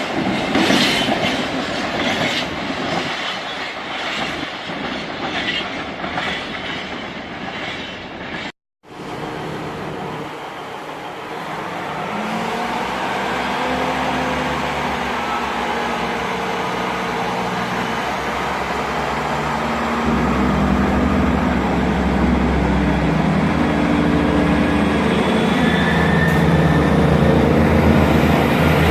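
Diesel train passing with its wheels clattering over the rail joints. After a sudden cut, a diesel train's engine runs with a steady hum whose note steps up, getting louder about two-thirds of the way through.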